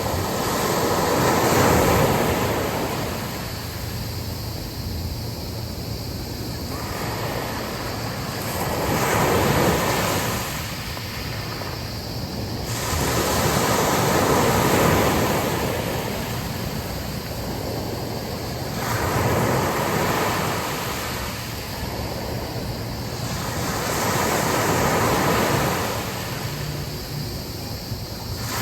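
Sea waves breaking and washing up a beach, surging and receding about every five seconds, with wind blowing.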